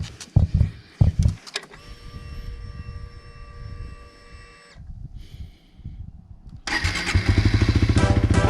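Suzuki GSX-S125 being started on a fresh battery: the starter turns it over, then about seven seconds in the single-cylinder engine catches and runs with an even, rapid low pulse.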